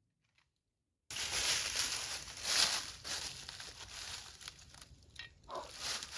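Rustling, crinkling noise, starting abruptly about a second in after dead silence and swelling and fading, with a brief falling whine near the end.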